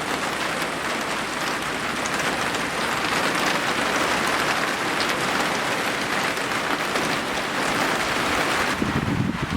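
Steady rain falling, a dense, even patter of drops. Near the end it gives way to a lower, uneven rushing sound.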